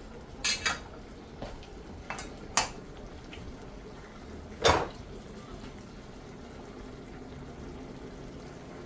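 Metal pots and utensils clinking and knocking on the stove, about six sharp strikes with the loudest nearly five seconds in, over a steady low hiss.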